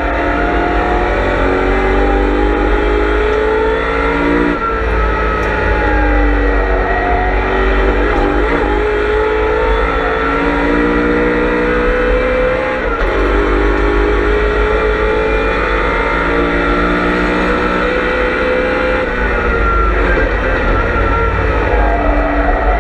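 In-car sound of a BMW M3 E92's V8 race engine under hard acceleration. The pitch climbs steadily and drops abruptly twice at gear changes, then falls away as the car slows before climbing again near the end.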